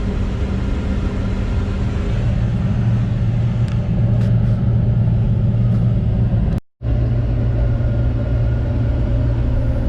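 John Deere 9760 combine's engine running steadily, heard as a low drone from inside the cab, its hum growing a little stronger about two seconds in. The sound cuts out for a split second about two-thirds through.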